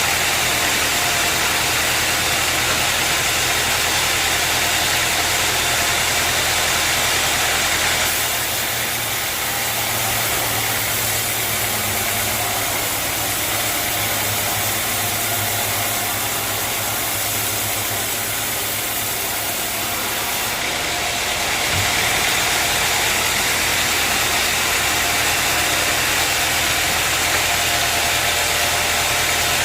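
Sawmill engine running steadily with a constant low hum. About a quarter of the way in the sound becomes slightly softer and duller, and about two-thirds of the way through it returns to its earlier level.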